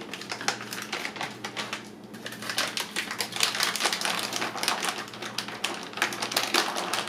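Cat-treat packaging being handled: plastic treat bags and containers crinkling and clicking in quick, irregular crackles.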